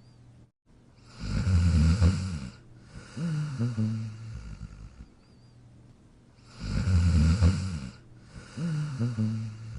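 Dog snoring in its sleep: two slow breaths about five seconds apart, each a loud rasping snore followed by a softer, pitched one.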